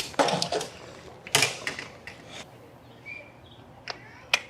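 Scattered sharp knocks and clicks: a loud clatter just after the start, another about a second and a half in, and two short sharp clicks near the end.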